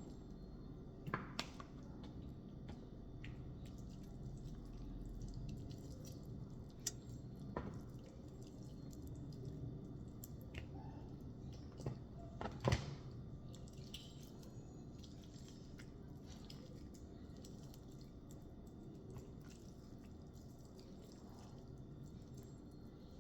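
Kitchen food-preparation sounds: scattered light clicks and knocks over a low steady hum, the sharpest knock about halfway through.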